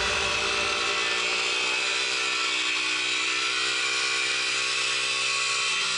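Small single-cylinder engine of an MRF 140 pit bike running at steady, fairly high revs with a buzzing note, the pitch holding almost constant.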